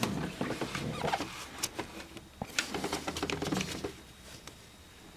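Light clicks and scraping of a metal retaining clip being worked into the slotted aluminium fitting of a transmission cooler line, stopping about four seconds in.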